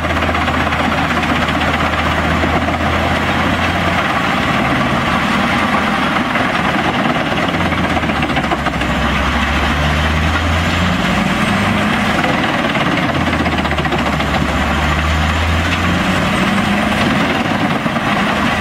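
Tracked drum chipper with its Scania DC16 V8 diesel engine running under load, chipping hardwood: a loud, continuous mechanical din in which the engine's low note drops away and returns several times as the load changes, with a few rising glides.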